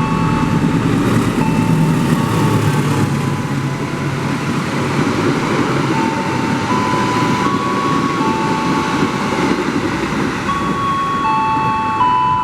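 A train running through the station, a continuous loud rumble of wheels on rails with high steady tones that shift in pitch now and then.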